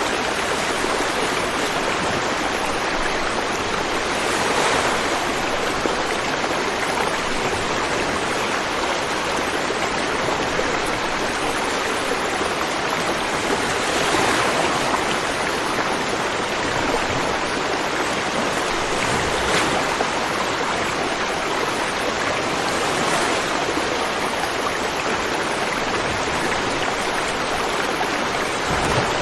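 River water running over rocks in a steady rushing flow, swelling a little every few seconds.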